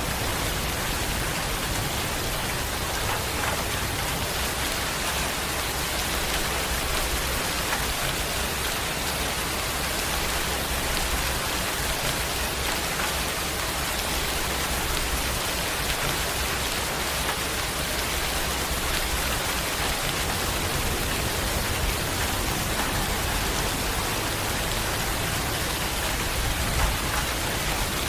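Steady rain falling and pattering on a surface, with a low rumble underneath.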